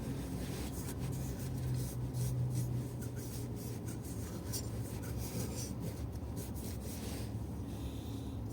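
Hand cleaning of a GX200-clone engine block: irregular rubbing and scraping strokes on the metal, over a steady low hum.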